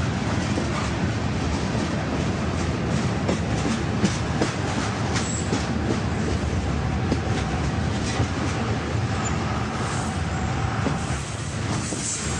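Train running on rails: a steady rumble with many sharp wheel clicks scattered through it.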